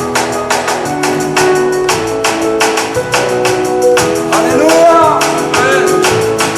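Live worship band music with a steady, fast percussion beat under held chords; a voice sings briefly around the middle.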